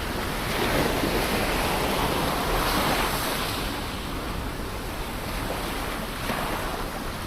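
Ocean waves breaking and washing on a shore: one wave swells up and rushes in over the first few seconds and then fades, with a smaller wash coming in near the end.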